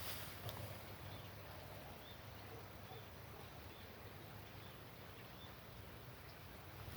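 Faint outdoor ambience: a steady low hiss, with a small bird giving short, faint chirps about once a second.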